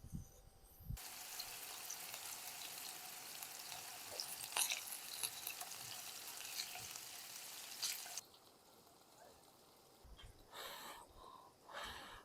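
Food sizzling and crackling in a hot pan, starting suddenly about a second in and cutting off about eight seconds in. A few short rustling or scraping sounds follow near the end.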